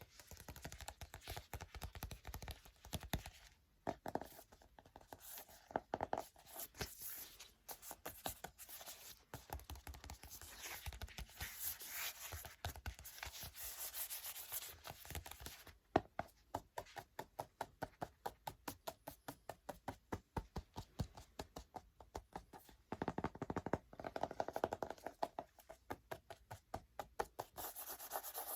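Book pages being turned and flipped by hand, with paper rustling and scraping. Midway comes a quick, regular run of sharp paper strokes, about three a second.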